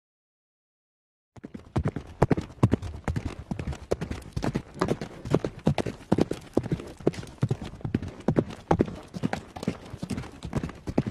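After a second and a half of silence, a fast, uneven run of sharp knocks starts up, several a second, like hoofbeats on a hard surface.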